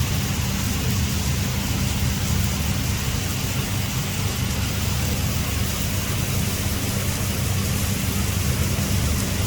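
Heavy rain falling steadily: a dense, unbroken hiss with a strong low rumble underneath.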